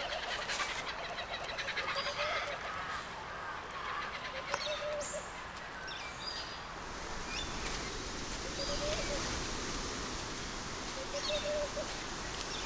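Birds calling over a steady hiss of outdoor ambience: short low calls repeated every few seconds, mixed with faint high chirps.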